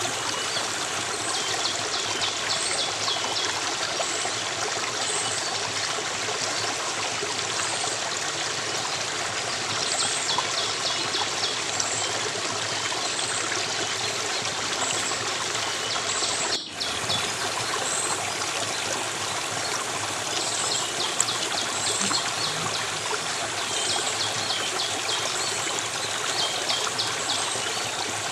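Steady running water of a stream, with high chirps and short trills repeating over it. The sound briefly drops out for a moment about two-thirds of the way through.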